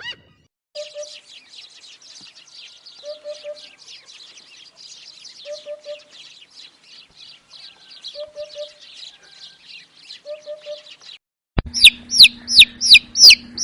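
Chickens: a crowd of chicks peeping continuously, with a hen's soft clucks coming in groups of three about every two and a half seconds. Near the end it cuts abruptly to much louder, rapid chicken calls, each falling in pitch, about two or three a second, over a steady low hum.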